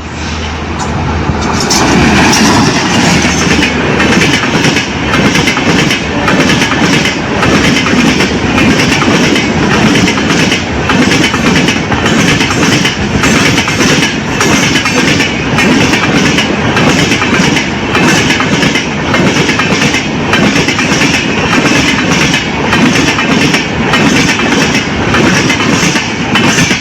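Express train passing close at speed, its wheels clattering over the rail joints in a rapid, even rhythm. The sound is loud and builds in the first couple of seconds, then holds steady.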